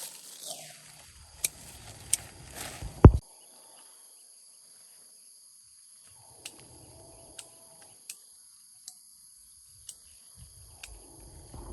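A steady chorus of insects trilling high-pitched, with scattered sharp clicks about once a second and a loud knock about three seconds in.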